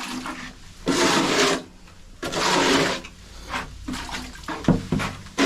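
Liquid splashing and sloshing in several separate bursts, the two biggest about a second in and midway.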